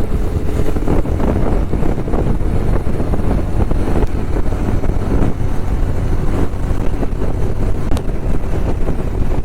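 Motorcycle ridden at road speed: a steady rush of wind over the microphone with the engine running underneath.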